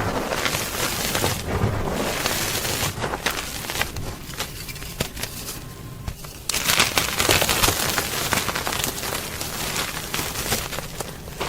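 Gym chalk being crunched and crushed close up: dense, crisp crackling. It eases off about four seconds in and picks up again about six and a half seconds in.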